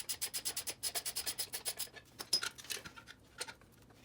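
Socket ratchet clicking rapidly, about nine clicks a second for the first two seconds, then a few scattered metal clicks and taps.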